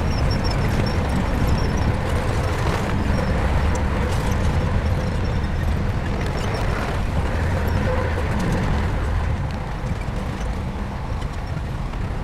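Shantui bulldozer's diesel engine running steadily under work, easing slightly near the end.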